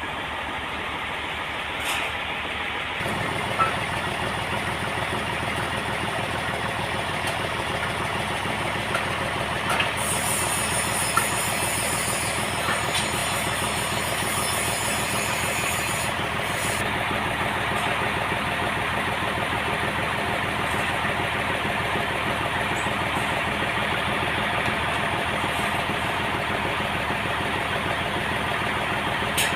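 Engine-driven log sawmill running steadily while sawing a trembesi (rain tree) log. The drone gets louder about three seconds in, and a higher hiss is added for several seconds in the middle.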